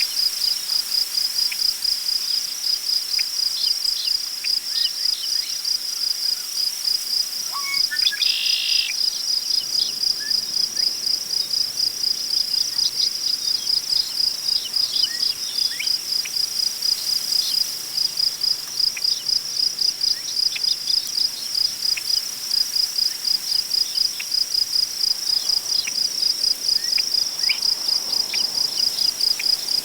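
Crickets chirping in a steady, even pulsing rhythm, with scattered short bird chirps and one brief bird call about eight seconds in, over a faint rustle of wind in grass.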